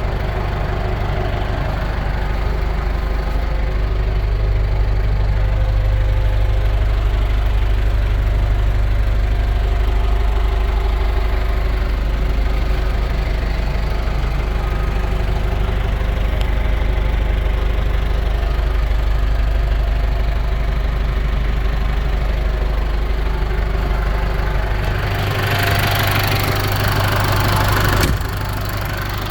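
1991 Case IH 695XL tractor's diesel engine running steadily at idle. Near the end a louder hissing noise joins in for a few seconds, then the sound drops back a little.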